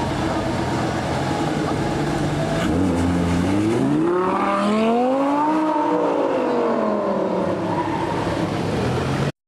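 Lamborghini Gallardo LP560-4 Spyder's V10 engine running at low revs, then rising in pitch for about two seconds as the car accelerates away and falling off again. The sound cuts off suddenly near the end.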